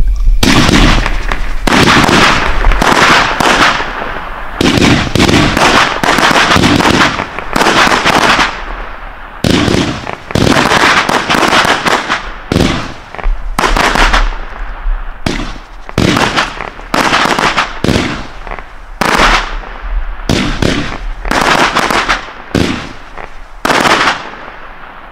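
Winda Pulse Pounder 50-shot consumer fireworks cake firing: a rapid, uneven string of sharp shots and bursts, many with a short fading tail, thinning out and getting quieter near the end.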